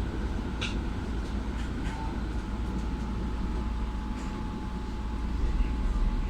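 Keihan Keishin Line tram-style train running along street track, heard inside the car: a steady low rumble of motors and wheels, with a faint steady whine and a few light clicks.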